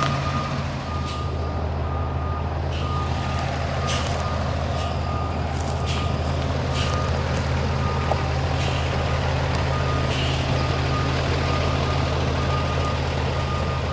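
Truck engine running steadily with a repeating electronic backup beeper sounding at an even pace. Several short hissing bursts come and go over it.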